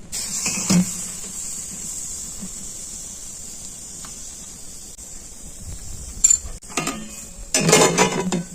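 Steady sizzle of food frying in a pan, with a few clattering knocks of cookware and a louder run of clatter near the end.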